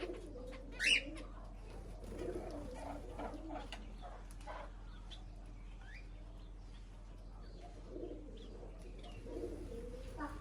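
Mixed flock of pet birds calling: spells of low calls under a scatter of short high chirps, with one loud high chirp about a second in.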